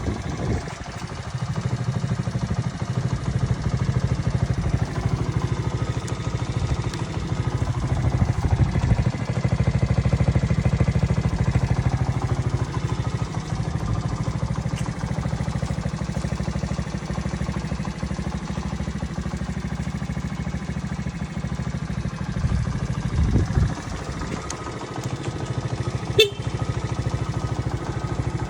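Honda Magna 50's 49 cc four-stroke single-cylinder engine idling steadily, its note swelling briefly a couple of times as the throttle is blipped. A single sharp click sounds near the end.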